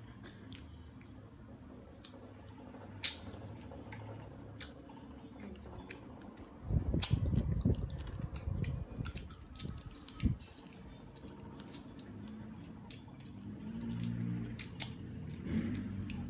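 People chewing and eating with their hands, with scattered small clicks of food and plates. A loud low rumble lasts about a second and a half about seven seconds in, and a single sharp thump comes near ten seconds.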